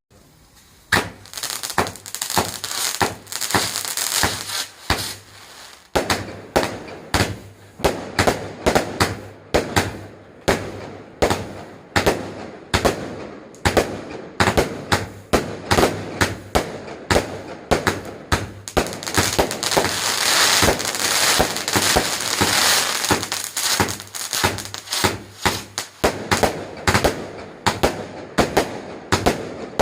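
Fireworks going off in rapid succession: a continuous string of sharp bangs, a few a second, starting about a second in, with crackling between them.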